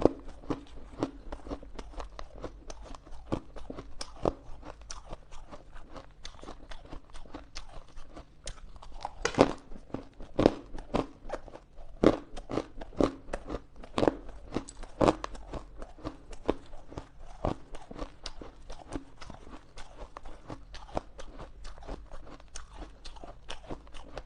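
Ice being bitten and chewed close to the microphone: a quick, uneven run of sharp crunches, several a second, with a few louder bites now and then.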